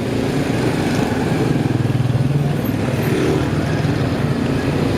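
Motorcycle engine running steadily while riding: a low hum with a fast even pulse, over road noise.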